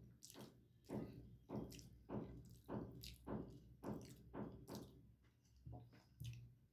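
A person chewing a mouthful of food, about two chews a second, slowing near the end.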